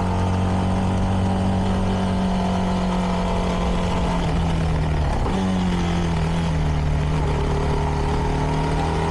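CFMoto 300NK's single-cylinder engine through its stock exhaust, cruising at a steady pitch. About four seconds in the note drops, breaks briefly, then settles slightly lower.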